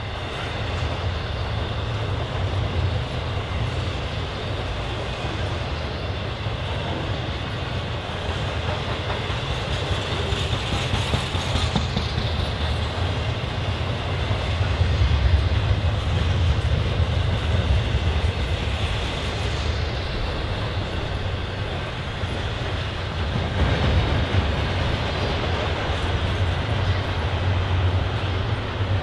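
Train cars rolling past at close range: a steady, continuous rumble of steel wheels on the rails with clickety-clack from the rail joints, swelling slightly about halfway through and again near the end.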